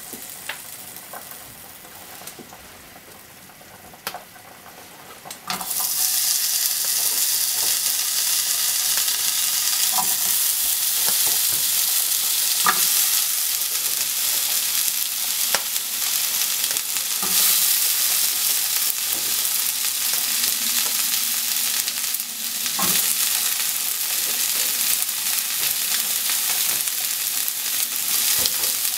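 Onion wedges sizzling in a hot nonstick frying pan. The sizzle starts suddenly about six seconds in and holds steady, with occasional knocks from pieces landing in the pan and being moved around.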